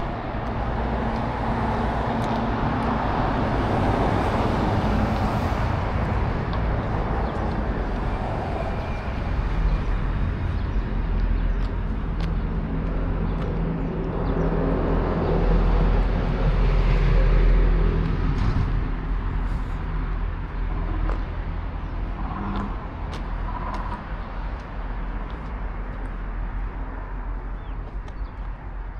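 Motor vehicle traffic: engines and tyre noise rumbling steadily, growing louder twice as vehicles pass, then easing off near the end.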